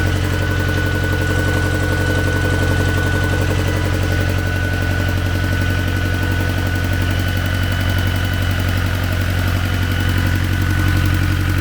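T-40AM tractor's diesel engine idling steadily and evenly, running normally.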